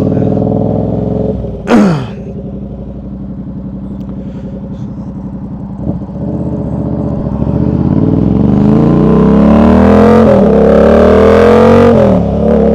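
Yamaha R7 motorcycle's parallel-twin engine running low with one short loud burst about two seconds in, then pulling away. The revs climb steadily, and it shifts up twice near the end.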